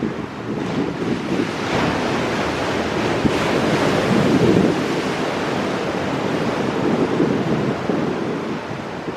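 Ocean waves breaking and washing against rocks in a continuous rush, swelling twice in the first few seconds, with wind buffeting the microphone.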